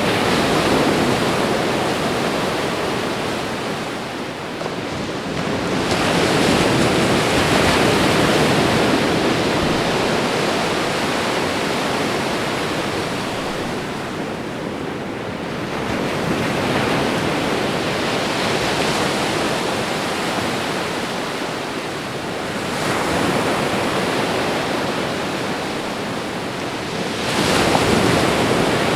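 Ocean surf: waves breaking and washing up the shore, a steady hiss that swells and falls back every several seconds.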